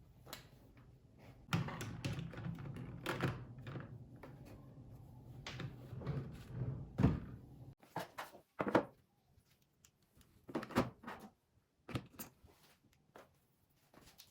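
Household handling sounds: a run of knocks and thuds over a steady background noise that cuts off abruptly about halfway through, followed by scattered sharp clicks and knocks.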